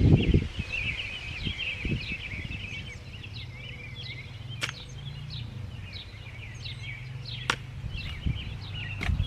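Small birds chirping and twittering, busiest in the first few seconds, over a steady low hum, with a couple of thumps at the start and a few sharp clicks later.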